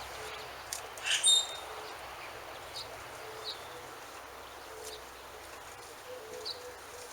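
Birds chirping: a few short, high chirps, the loudest about a second in, over a steady faint hiss.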